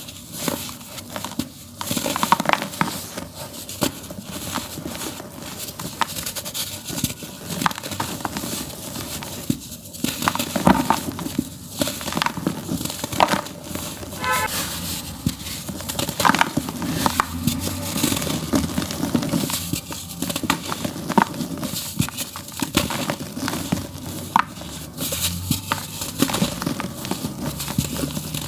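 Dry earthy dirt being crumbled in a tub: a continuous run of dense crackling and gritty crunching, with louder crunches every second or so.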